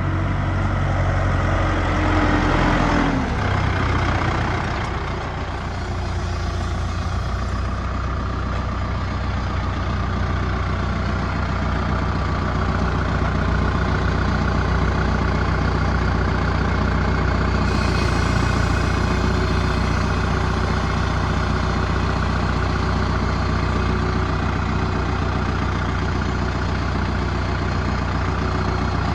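Deutz-Fahr K120 tractor's four-cylinder turbo diesel running. Its revs drop about three seconds in, and after that it runs steadily.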